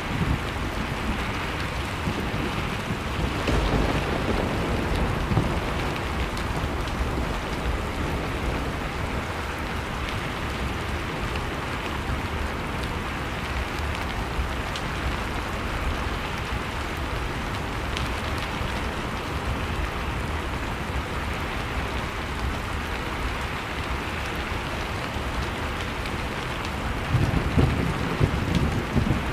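Blizzard wind blowing steadily with a fireplace crackling in faint ticks over it. A louder low gust comes near the end.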